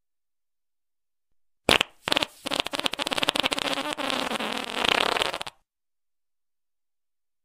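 Fart sound effect: a short blip, then one long, buzzy, rapidly pulsing fart lasting about three and a half seconds that stops suddenly.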